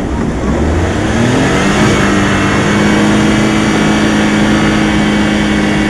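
Vehicle engine revving up over the first couple of seconds, then held at steady high revs.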